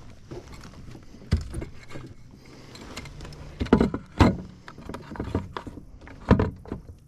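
Irregular knocks and thumps against a fishing kayak's hull, four loud ones with softer clatter and rustling in between.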